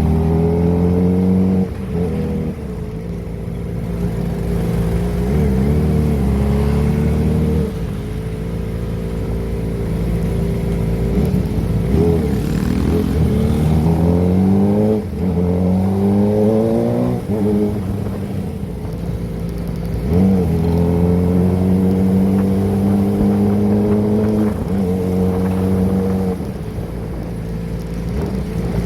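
Kawasaki ZX-25R's inline-four engine through a Prospeed aftermarket exhaust, ridden on the road. The revs climb and drop off several times with gear changes, between stretches of steady cruising.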